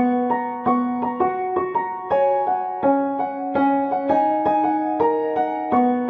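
Background music: a piano playing a melody of struck notes, about two or three a second, each note fading away before the next.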